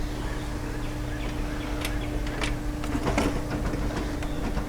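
A steady droning hum, with a few scattered light clicks and knocks of tools and coop parts being handled, the most around the middle.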